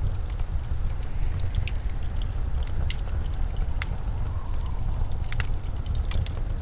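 Steady low rumbling blizzard wind, with scattered sharp crackles and ticks over it.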